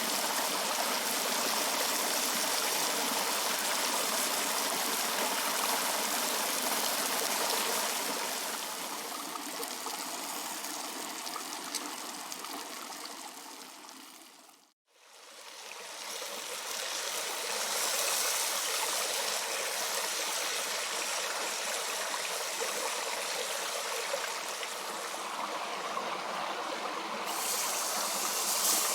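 Creek water flowing in a steady rushing wash. The sound fades out to silence about halfway through, then fades back in.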